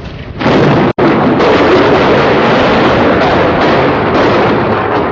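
Thunderclap from a close lightning strike: a sudden loud crack about half a second in, then a loud, sustained rumble.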